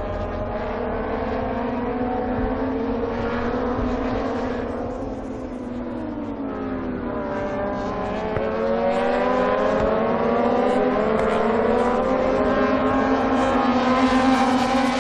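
Moto2 racing motorcycles' Triumph 765 cc three-cylinder engines at high revs. Several engines are heard at once, their pitch falling and rising through gear changes, and they get louder about halfway through.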